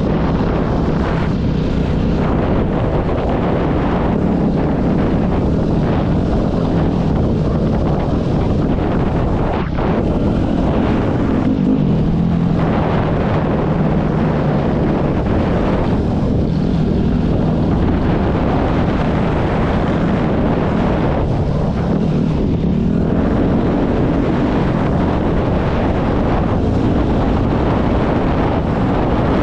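Dirt bike engine running under shifting throttle, its pitch rising and falling every few seconds as it is ridden, with wind rushing over the microphone.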